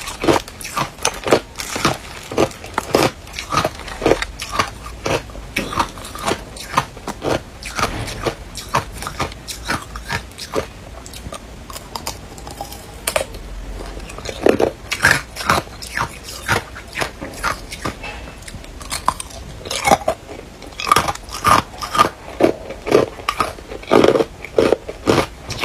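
A person biting and chewing ice close up: rapid, sharp crunches, several a second, thinning out briefly in the middle before coming thick again.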